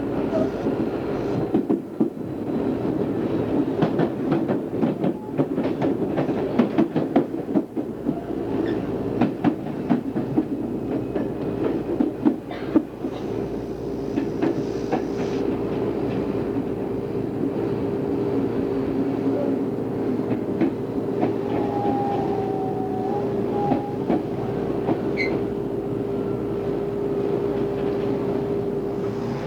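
Odakyu 2600 series electric commuter train running, heard from inside the car. For the first half the wheels clatter rapidly over rail joints and points; then it settles into a smoother run with a steady tone over the rumble.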